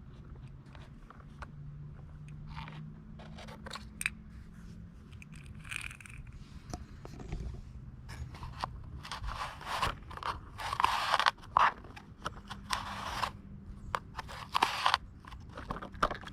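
Clicking and scraping of small hard parts being handled, likely a die-cast model garbage truck, with louder, longer scrapes in the second half.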